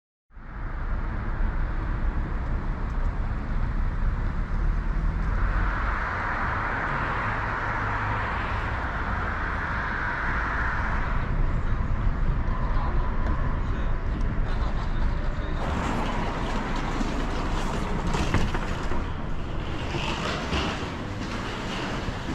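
Railway noise: a steady low rumble, with a louder hissing band for several seconds in the middle and a run of clattering knocks in the last several seconds.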